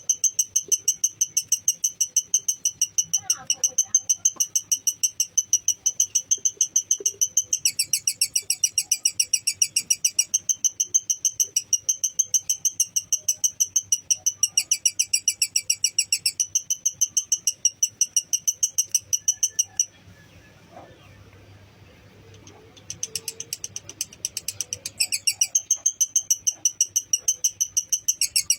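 Lovebird chattering in a long 'ngekek' trill, a fast, even string of shrill chirps. It breaks off for about three seconds two-thirds of the way through, then starts again.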